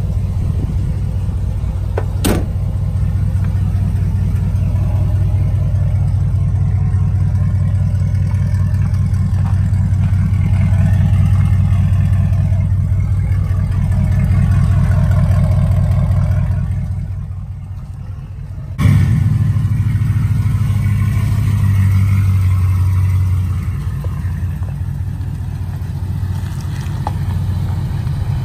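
Lifted 2007 Chevrolet Silverado driving, a steady low engine and road rumble. A sharp click comes about two seconds in, and the rumble drops briefly and comes back suddenly about two-thirds of the way through.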